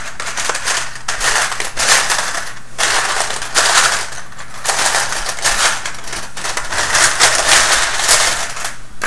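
Hands rummaging through a plastic bag of small plastic robot-kit parts: continuous crinkling and rustling in uneven bursts, with brief lulls.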